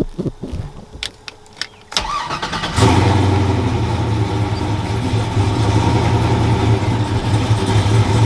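A pickup truck's V8 engine starting: a few clicks, then about a second of cranking, then it catches about three seconds in and settles into a loud, steady idle. This is the first start after a misfiring cylinder's bad injector was replaced.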